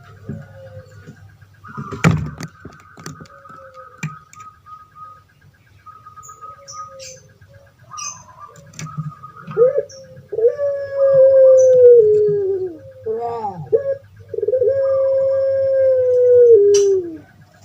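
Puter pelung dove (Streptopelia risoria) cooing: a few soft short notes, then about halfway two long drawn-out coos, each held steady and dropping in pitch at the end, with a short rising-and-falling note between them. A sharp knock sounds about two seconds in.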